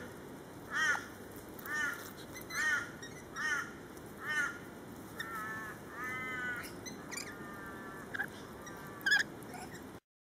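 Birds calling: a run of short calls that rise and fall in pitch, about one a second, then several longer drawn-out calls, and a sharp screech near the end before the sound cuts off abruptly.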